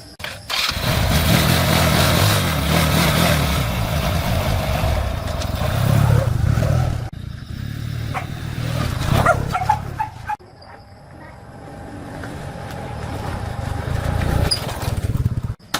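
Old motorbike's small gasoline engine running, in several sections that start and stop abruptly, the last one growing steadily louder.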